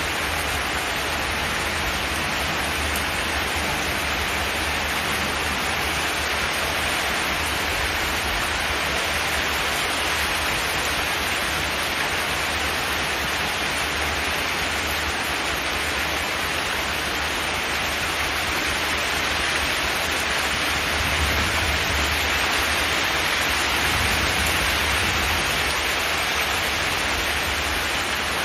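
Steady heavy rain on a zinc metal roof: an even hiss of dense drops with a low rumble underneath.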